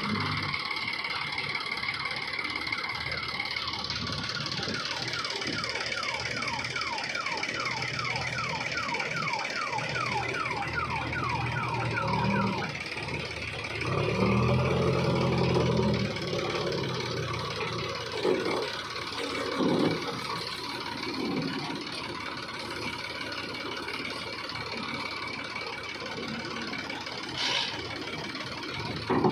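Electronic alarm-like warble: a rapid run of falling chirps, about three a second, over a running vehicle engine. The engine comes up louder for a few seconds in the middle.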